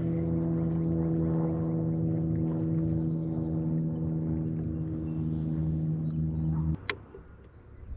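Kayak's electric trolling motor humming steadily, then cutting off abruptly almost seven seconds in, followed by a single sharp click.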